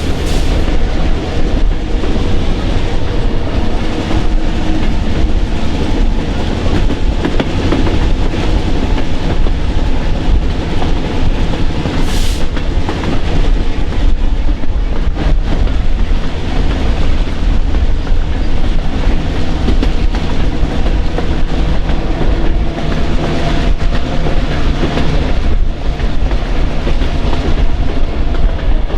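Train running along the track, its wheels clicking over the rail joints over a steady low rumble. A brief high hiss about twelve seconds in.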